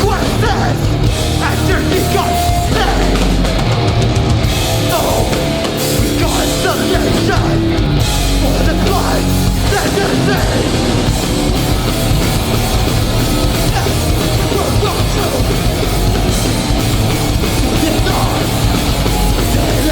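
A hardcore punk band playing live at full volume: distorted guitars, bass and pounding drums, with a shouted vocal at times.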